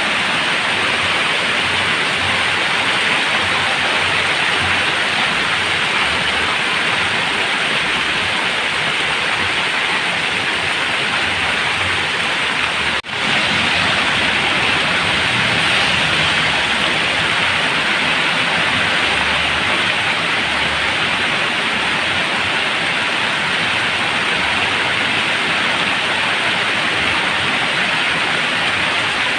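Heavy rain falling steadily, a dense even hiss with a momentary drop in level about halfway through.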